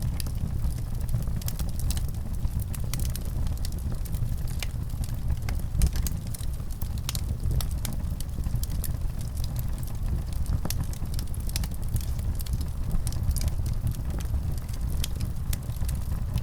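Wood fire in a fireplace crackling, with frequent small sharp pops and snaps over a steady low rumble.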